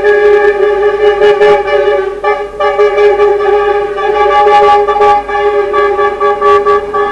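Truck air horns sounding loud and unbroken, a steady multi-note blare with slight wavering in loudness.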